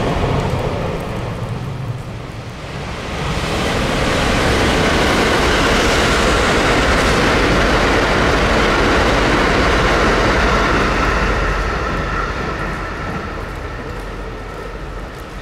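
White limited-express electric multiple-unit train running past on the main line at speed, then receding. The noise swells about three seconds in, holds steady for several seconds, then fades away toward the end as the train pulls away.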